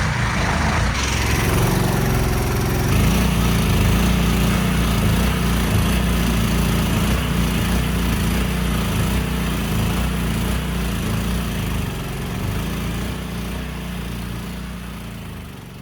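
Mud boat's small gasoline mud motor running steadily, a continuous low engine drone that fades away near the end.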